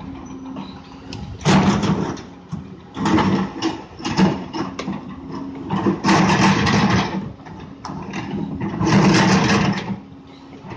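Doosan DX 200 A excavator's diesel engine running steadily while its bucket works rocky padas material, with four loud scraping, rumbling stretches of about a second each as rock is dug and loaded.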